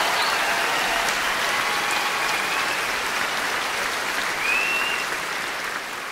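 Audience applause at the end of a live song recording, fading out steadily.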